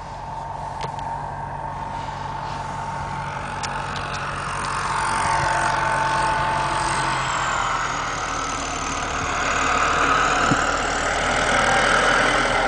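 Tractor engine driving past, growing steadily louder as it approaches.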